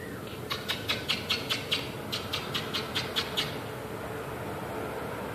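A person making rapid kissing squeaks to call cats: two quick runs of about seven short squeaks each, about five a second, over a steady low background hum.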